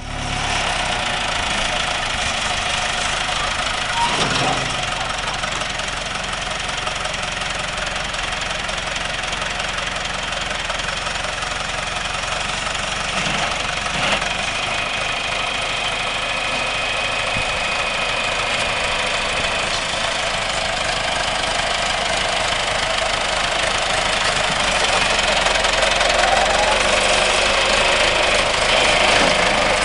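John Deere 410 backhoe's diesel engine running steadily at idle, with an even diesel knock, growing a little louder over the last few seconds.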